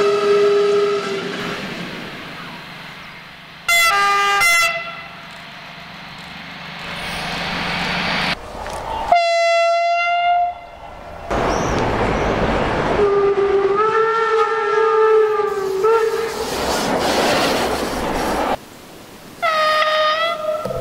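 Locomotive Makrofon air horns sounding in a run of short clips cut together: a blast ending about a second in, two short toots around four seconds, a single higher toot near ten seconds, a longer blast around fourteen seconds and another toot near the end. The noise of passing trains fills the gaps between them.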